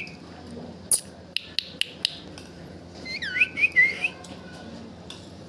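Baby parrot vocalizing: a few sharp clicks and short chirps, then about three seconds in a quick run of whistled notes sliding up and down.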